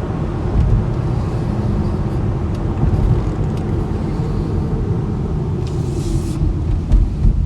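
Steady low road and drivetrain rumble inside the cabin of a 2012 Chevy Impala driving at road speed, with no squeaks or clunks. A brief hiss comes about six seconds in.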